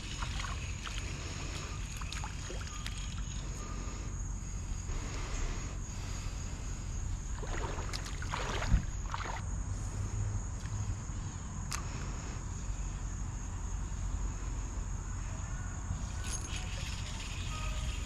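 Creek water sloshing and rippling around the legs of a wading angler, over a steady low rumble, with a steady high drone of insects; a brief splashing swell near the middle and one sharp click about nine seconds in.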